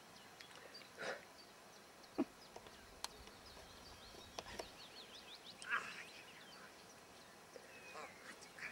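Quiet outdoor ambience with birds chirping in the background, broken by a few short louder noises and a sharp knock about two seconds in.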